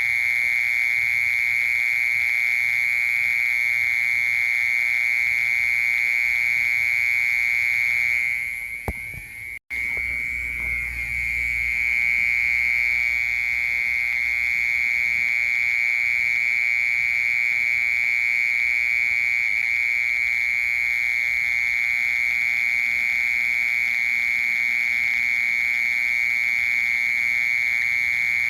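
Cricket singing in one continuous, steady, high-pitched trill. It dips about eight seconds in, breaks off for an instant near ten seconds, then carries on unchanged.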